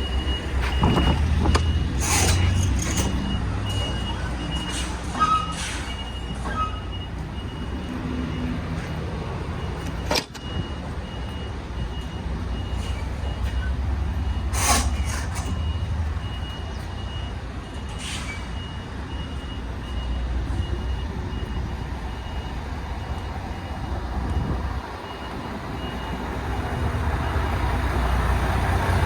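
MAN TGX 18.510 truck's diesel engine running, with its reversing alarm beeping repeatedly until about 24 s in, as the truck backs up. Several short sharp noises stand out over the engine, the loudest about 15 s in.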